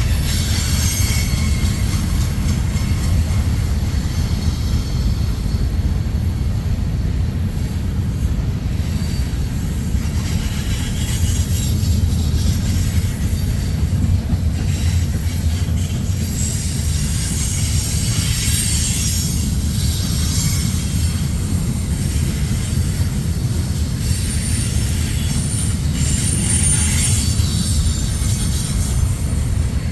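Freight train's cars rolling past on the rails with a steady low rumble, and high-pitched wheel squeal coming and going several times.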